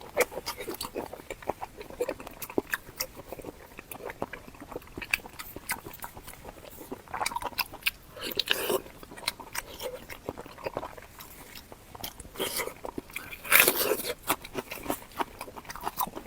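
A person eating close to the microphone: steady clicking, smacking chewing and biting sounds, with louder crunchy bites about halfway through and again near the end.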